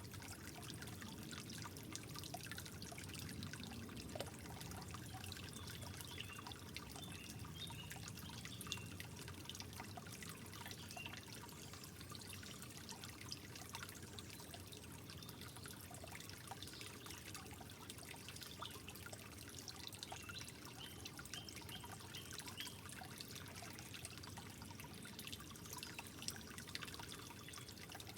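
Water trickling steadily with many small drips and plinks.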